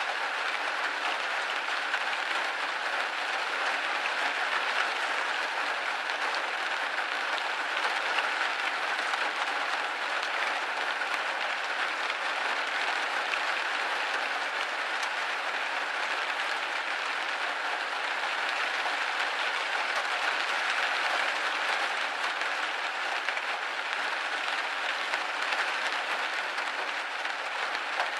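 Steady rain hitting a window pane: an even, dense hiss of drops with faint ticks from single drops.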